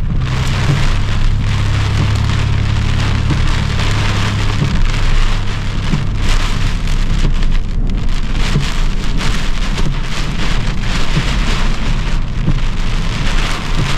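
Heavy, non-stop rain drumming on a car, with a low rumble from the car underneath that eases off about four to five seconds in.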